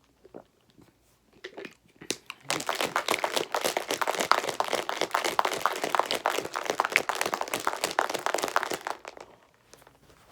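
Loud crinkling, crackling handling noise close to the microphone, starting about two seconds in and lasting about six and a half seconds, preceded by a few faint clicks.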